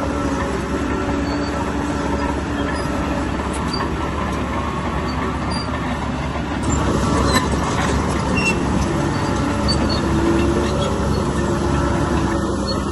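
Bulldozer's diesel engine running under load with its steel tracks clanking and squeaking, louder from about halfway through.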